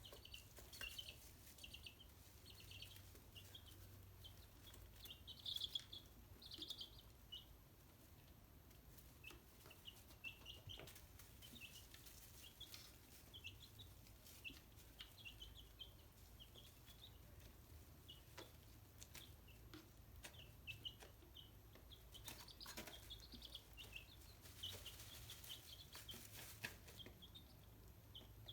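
Chicks peeping: many short, high chirps, faint overall, with a few louder spells and scattered light clicks.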